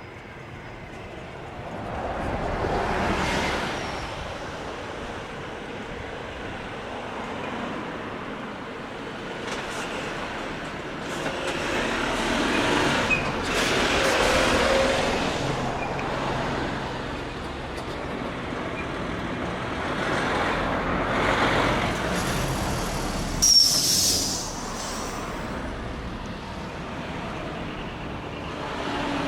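Heavy trucks fitted with split exhaust manifolds (mani-wari) driving past one after another, the exhaust note swelling and fading as each goes by. A short, loud hiss about three-quarters of the way through.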